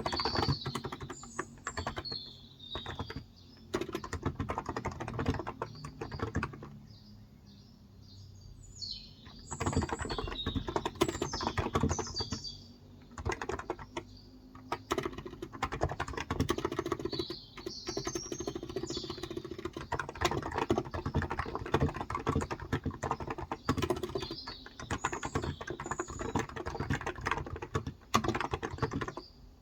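Typing on a Cox Endeavor electro-capacitive 35 g tenkeyless keyboard: fast runs of keystrokes, with pauses about seven seconds in and again around thirteen seconds. Birds chirp in the background.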